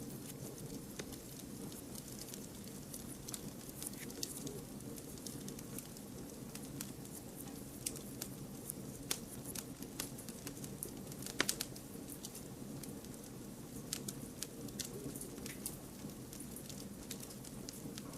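Wood fire burning with a steady low rumble and frequent irregular crackles and pops, one louder pop a little after the middle.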